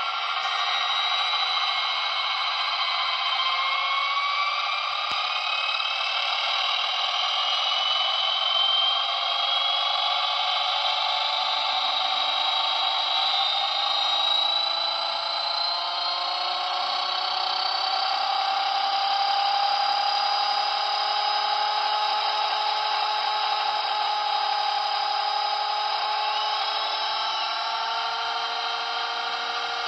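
Blade 230S V2 RC helicopter's electric motors and rotors whining, the pitch climbing slowly and steadily as the head speed rises.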